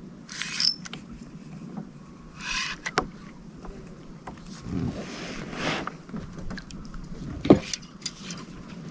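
Handling noises aboard a plastic fishing kayak during a fight with a hooked trout: a few clicks and knocks against the hull with short hissing bursts, and a sharp knock about seven and a half seconds in.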